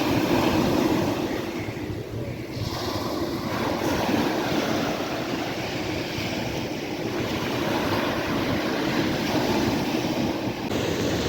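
Sea waves washing onto the shore, a continuous rushing surf that swells and ebbs every few seconds.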